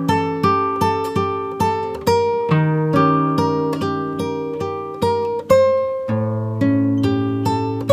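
Background music: an acoustic guitar picking single notes at an even pace, about two a second, each ringing and fading over lower held notes.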